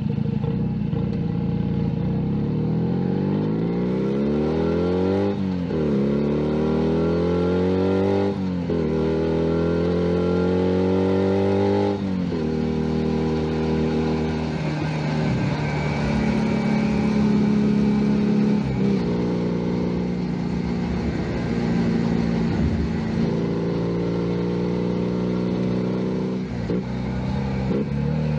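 Junak M11 Cafe 125 cc motorcycle engine accelerating through the gears. Its note climbs and drops sharply three times as it shifts up, then it runs at a steadier cruising pitch with small throttle changes.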